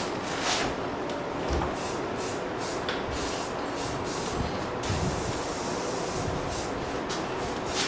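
Rust-Oleum American Accent satin-finish aerosol spray paint hissing from the can as it is sprayed onto forged steel, in long steady passes with brief breaks.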